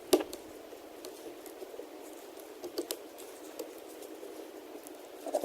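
Gloved hands handling small tablet parts and tools on a workbench: scattered faint clicks and taps, the sharpest one just after the start.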